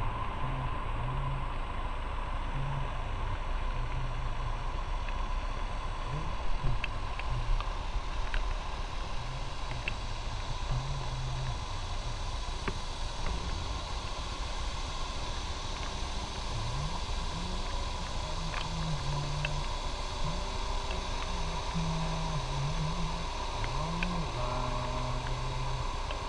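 Motorcycle running along the road with steady wind and road noise; the engine's low tone steps up and down in pitch as the rider speeds up and slows.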